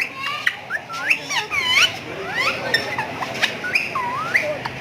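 Caged pet birds chirping and whistling: a rapid, overlapping string of short calls that glide up and down in pitch.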